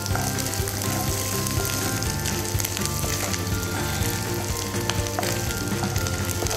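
Chopped Veg Bytz pieces sizzling steadily as they fry in hot oil, stirred with a wooden spatula against a nonstick pan, with background music underneath.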